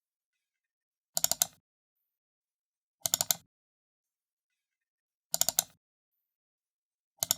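Computer mouse button double-clicking, each double-click a tight cluster of sharp clicks. The double-clicks come about every two seconds, four in all, the last right at the end.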